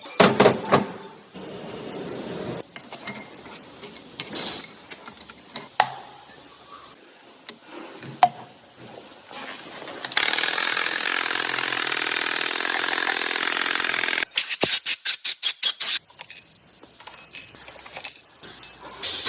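Hand and power tools at work on an engine being assembled: scattered metallic clicks and knocks, a steady loud hiss for about four seconds midway, then a quick run of short sharp bursts from a power tool.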